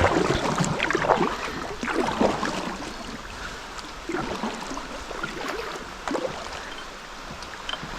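Kayak paddle strokes dipping and splashing in river water, irregular splashes and drips, louder in the first couple of seconds and then softer.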